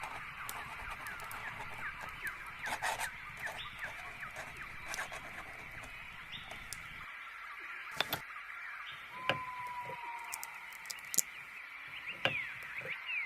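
Birds chirping and calling: a dense run of quick short chirps, with one longer held whistled note about nine seconds in. Scattered sharp clicks sound among them, and a low background rumble drops away about seven seconds in.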